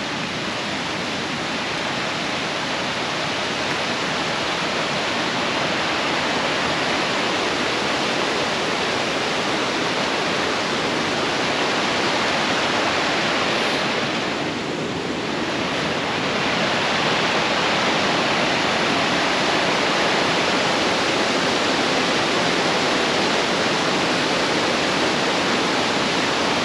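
Glacial mountain stream rushing over rocks: a steady, loud rush of water that dips slightly for a moment about halfway through.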